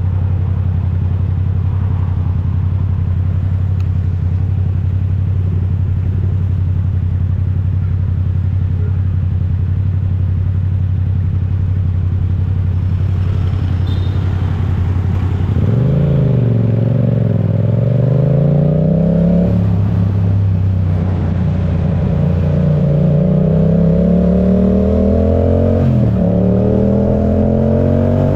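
Yamaha YZF-R7's 689 cc parallel-twin engine through an Akrapovic full exhaust, running at a steady low idle hum. About halfway through, it revs up as the bike pulls away, the engine pitch climbing through the gears and dropping at two upshifts.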